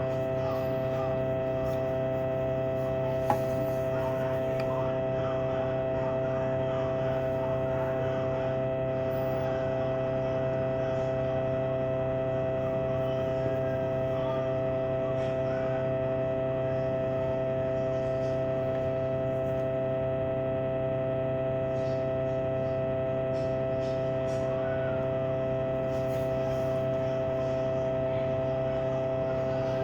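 Steady electrical hum made of several steady pitched tones, with one small click about three seconds in.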